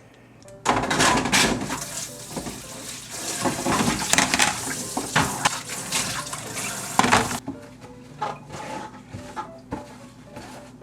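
Kitchen sounds: water running with dishes and utensils clinking for about seven seconds, then a quieter stretch of scattered clinks.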